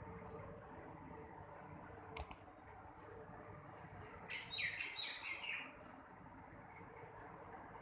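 A pet parrot calling in a quick run of short, high chirps and squawks for about a second and a half, a little past the middle. A single sharp click comes a couple of seconds in.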